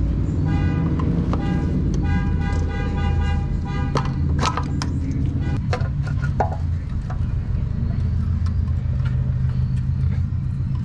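Steady low rumble of a nearby car engine idling, with a horn-like tone held for about three seconds near the start. From about four seconds in come scattered sharp clicks and knocks of a screwdriver prying up a valve cover.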